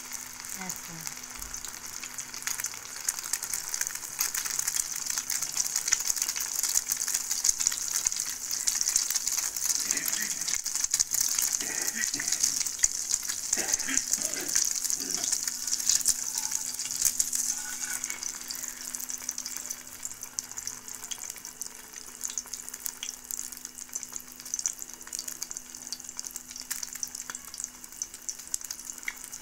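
A slice of bread soaked in egg and milk sizzling in hot ghee in a frying pan, a steady sizzle with fine crackles. It settles a little after about twenty seconds.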